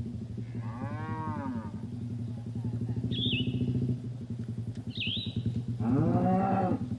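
Cows mooing twice, one long call about a second in and a louder one near the end, over the steady running of a small engine, with a few short bird chirps between the calls.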